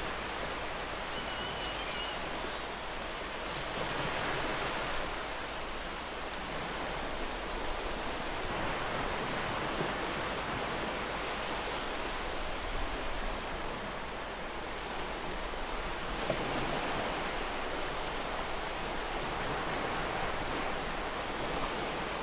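Ocean waves breaking and washing on a shore: a steady wash of surf that swells and eases every few seconds.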